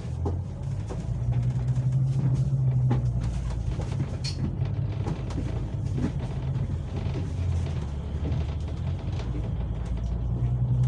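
Inside a moving public-transport vehicle: a steady low hum and rumble whose pitch shifts a little now and then, with light rattles and clicks.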